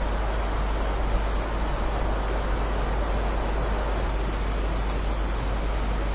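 Rain falling steadily: an even, unbroken hiss with a low rumble underneath and no distinct drops or thunder.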